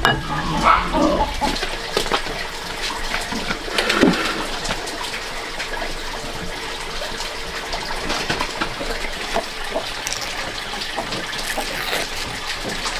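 Water running steadily with splashing, mixed with occasional small knocks and clinks.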